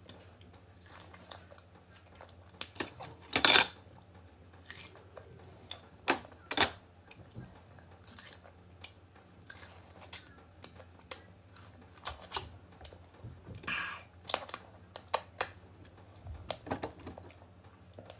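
Crunching and chewing of raw green mango: irregular crisp crunches and mouth clicks, the loudest about three and a half seconds in.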